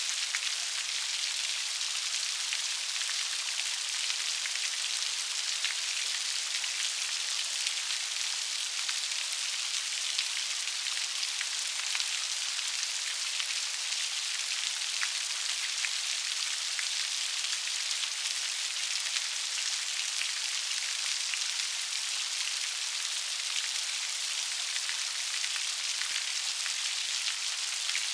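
Steady rain falling on a surface, an even hiss of raindrops dense with fine crackling drop impacts, mostly high-pitched with almost no low rumble.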